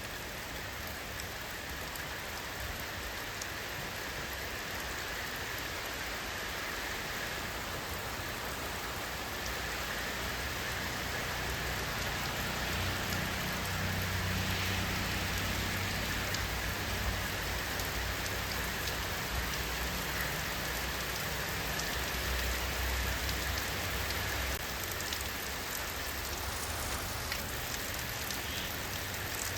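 Steady rainfall with fine scattered drop ticks, and a low rumble that swells in the middle and fades again.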